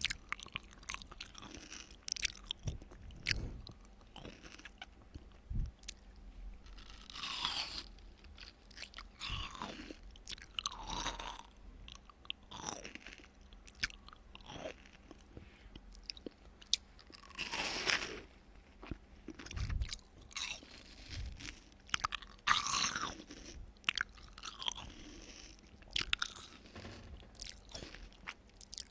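Close-miked ASMR eating: a person biting and chewing watermelon with crunching and wet mouth clicks, irregular and unhurried.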